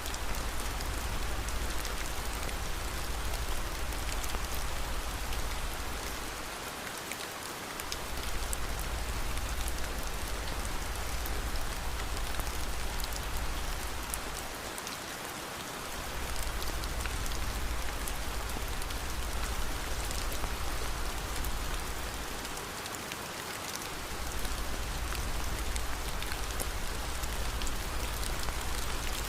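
Steady heavy rain falling, a dense even hiss with fine scattered drop ticks. A low rumble underneath fades out briefly about every eight seconds and returns.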